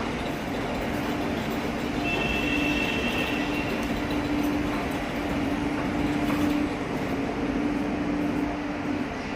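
Delhi Metro train running, with a steady electric hum over rumbling noise and a thin high whine from about two seconds in that lasts a second and a half.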